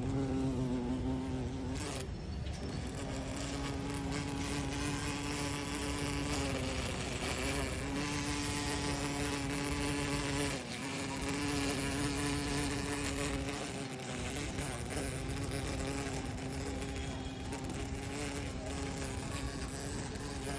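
A winged insect on a plant buzzing its wings in a steady, even-pitched hum. The hum breaks off briefly about two seconds in and again near the middle. The insect is struggling and seems unable to fly off, perhaps damaged by ants.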